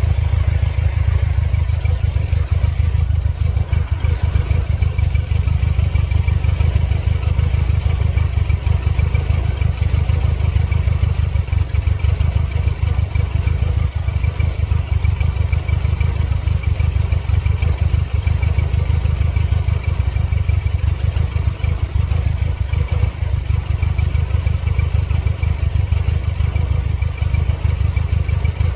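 The 2.3-litre supercharged four-cylinder engine of a 1999 Mercedes-Benz C230 Kompressor idling steadily, a deep pulsing rumble with a faint steady high whine above it. The engine has serious running problems, with its check-engine light flashing.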